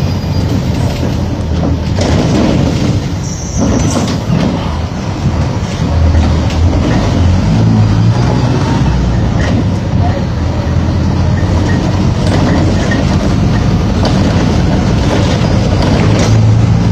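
Mercedes-Benz OF-1722M bus diesel engine running while the bus is under way, growing louder about six seconds in as it pulls harder, and again near the end with a faint rising whine. Occasional brief rattles sound through it.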